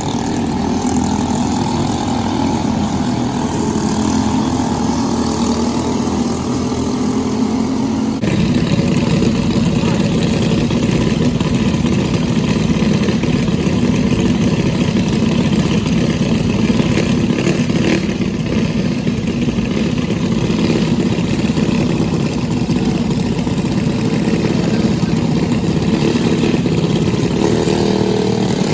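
Briggs & Stratton LO206 four-stroke racing kart engine running hard on track. The sound jumps louder about eight seconds in and stays steady after that.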